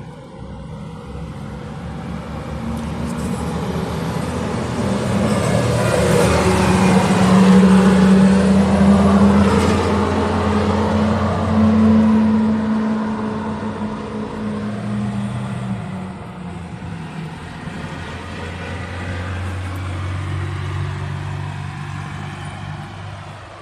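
Road vehicle noise: a steady low hum with tyre and traffic noise that swells to a peak about halfway through and then fades.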